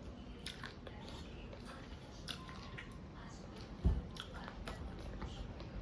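Close-miked eating sounds: chewing and biting with small wet clicks and smacks, while rice and fish curry is eaten. A single low thump about four seconds in stands out as the loudest sound.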